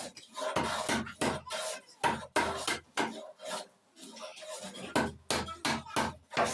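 Repeated rasping strokes on wood, a file, rasp or sanding block worked back and forth by hand at about two or three strokes a second, with a short pause near the middle.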